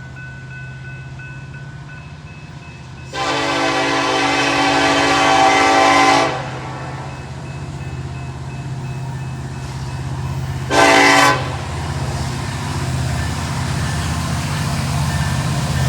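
Norfolk Southern diesel freight locomotive approaching with a steady low engine rumble, sounding its chord horn: a long blast about three seconds in, a short blast about eleven seconds in, and another blast starting at the very end. The horn sounds like an SD70ACE's to the railfan.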